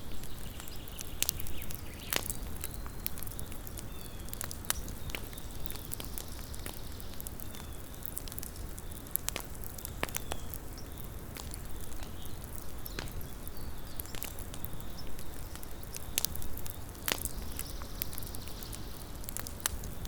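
Small campfire crackling: irregular sharp snaps and pops, several a second, over a steady low hiss of burning wood.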